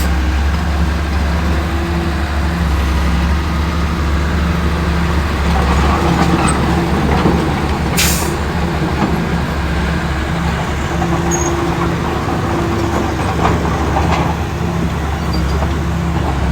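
Heavy diesel engine of earthmoving machinery running steadily under load, with a constant low drone, plus one brief sharp high noise about halfway through.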